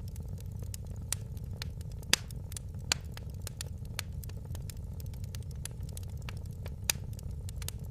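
Wood fire burning with a steady low roar, with scattered sharp crackles and pops, the loudest a little over two seconds in, just before three seconds, and near seven seconds.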